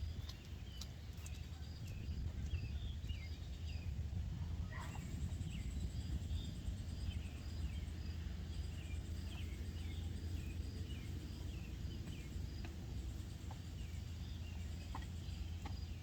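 Birds chirping in short, falling notes, over an insect's steady, evenly repeating high pulse and a constant low rumble.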